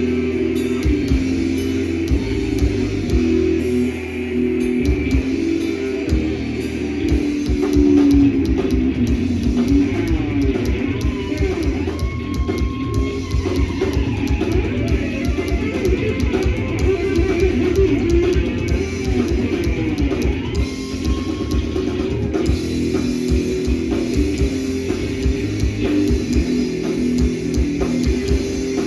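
Crossover thrash band playing live: distorted electric guitars and fast drum kit, without vocals.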